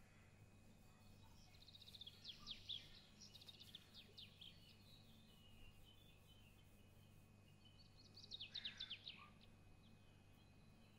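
Faint bird chirping over a low steady hum: a quick run of high chirps about two seconds in, and another about eight seconds in.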